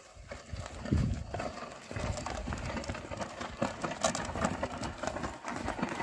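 Oxen hooves clopping and shuffling: irregular knocks and clicks, with a louder thud about a second in.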